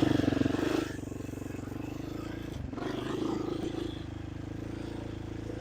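ATV engine revving up in the first second, then running at a steady low speed. A short knock about two and a half seconds in.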